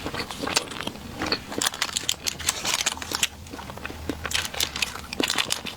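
Close-up eating of a soft dessert cake: wet chewing and mouth sounds, made of many quick, irregular clicks and crackles.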